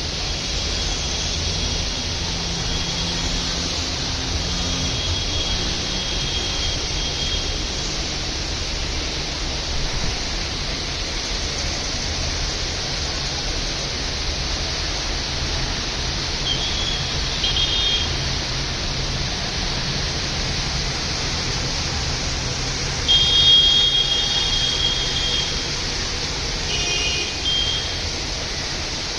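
Heavy rain falling in a steady, even hiss. Brief high-pitched tones cut through it a few times, most strongly about three quarters of the way in.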